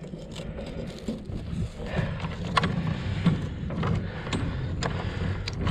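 Mooring chain being hauled aboard on a winch, its links clanking and knocking at irregular moments over a steady low mechanical hum.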